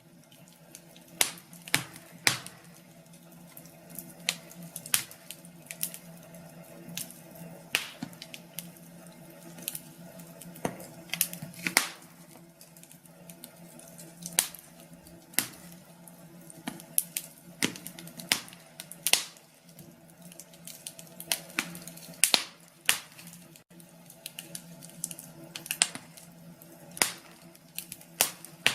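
Wood fire in a fireplace crackling, with sharp pops about once a second at uneven intervals over a low steady hum.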